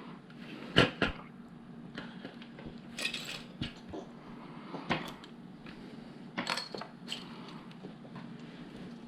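Small plastic LEGO pieces clicking and clattering as they are handled and sorted: scattered sharp clicks, about one every second or two, with a brief rattle of several pieces about three seconds in.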